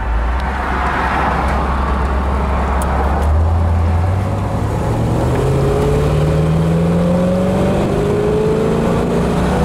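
1967 Corvette's 327 small-block V8 with automatic transmission accelerating at about three-quarter throttle. The engine note holds low at first, then climbs steadily in pitch through the gear from about four seconds in.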